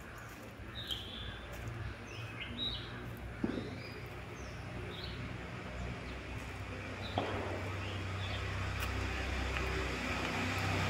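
Birds chirping in short high calls, scattered through the first half. A low rumble of a passing motor vehicle builds up near the end.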